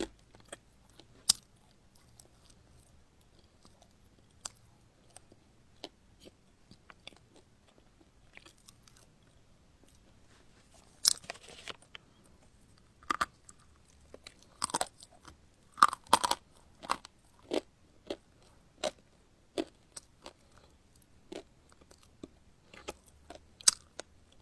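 Close-miked chewing of crunchy food: sharp, crisp crunches and bites, scattered at first and then coming in quick clusters through the middle.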